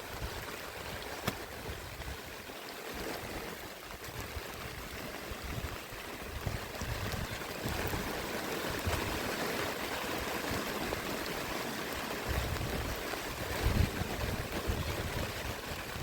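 Steady rain falling, an even hiss, with gusts of wind rumbling on the microphone that grow stronger in the last few seconds.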